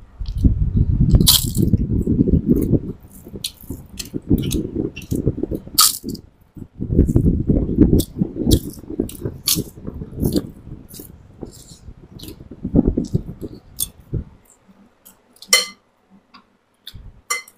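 Close-miked chewing and crunching: muffled low chewing in long spells, with frequent sharp crunches and mouth clicks from crisp fried flatbread and vegetables eaten by hand. The heavy chewing stops about 14 seconds in, leaving a few scattered clicks.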